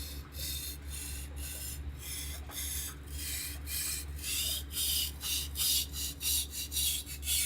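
Steel knife blade scraping back and forth across a Naniwa Chosera whetstone in sharpening passes, about two to three strokes a second, getting louder from about halfway through.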